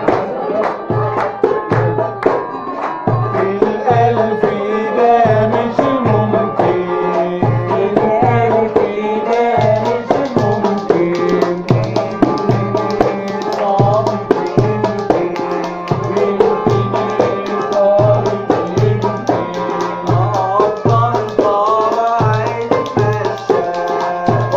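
Port Said simsimiyya folk music: a wavering melody line over a steady drum beat of about two strokes a second, with other percussion.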